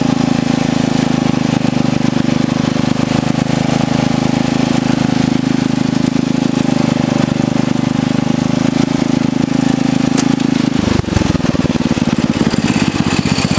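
Craftsman riding lawn tractor's engine running steadily under way; about eleven seconds in its steady note breaks and changes.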